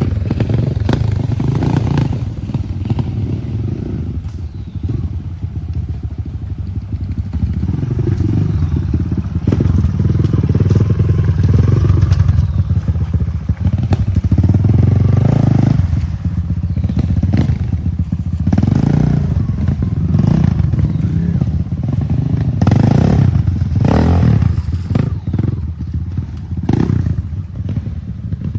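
Enduro motorcycle engines running loud and revving, the sound swelling and easing every few seconds.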